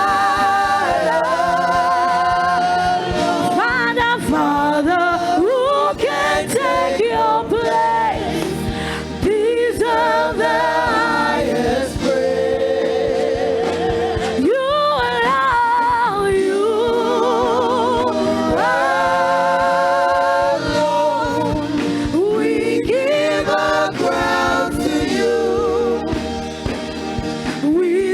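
Gospel worship song: voices singing with vibrato over a steady instrumental accompaniment.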